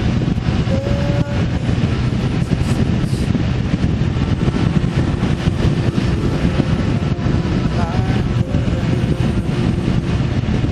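Vehicle engine running steadily under way, with heavy rumbling road and wind noise on the microphone.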